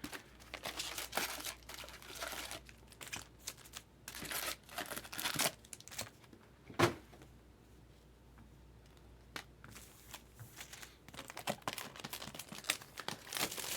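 Crinkling and tearing of trading-card box and pack wrappers, in irregular rustling bursts, with one sharp snap about seven seconds in and a quieter stretch after it before the crinkling picks up again.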